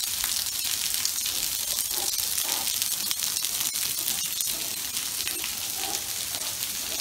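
Steady rain falling on wet stone paving, an even hiss.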